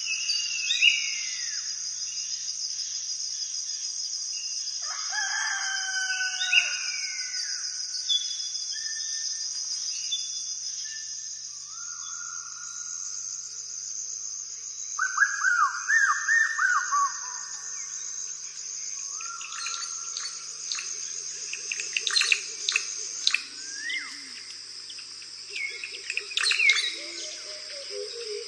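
Birdsong: several birds chirping and calling in short gliding phrases over a steady high-pitched drone.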